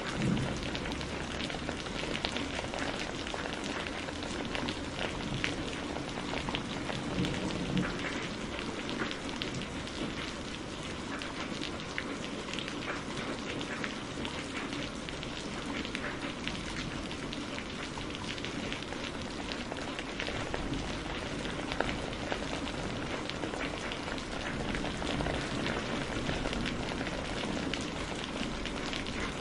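Steady rain falling with a dense, even patter of drops.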